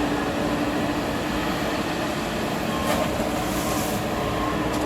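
Heavy logging machinery working nearby, its diesel engine running steadily with a low, held hum.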